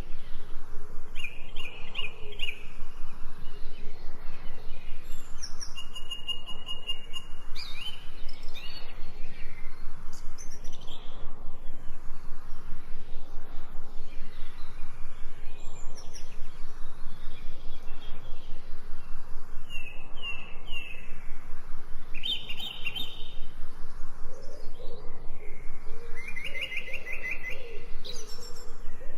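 Forest songbirds chirping in short scattered phrases over a steady background rush of a small stream, with lower calls near the end.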